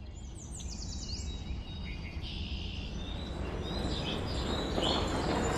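Birds chirping over a steady low outdoor rumble, with a quick run of falling high chirps about half a second in. The background grows louder toward the end.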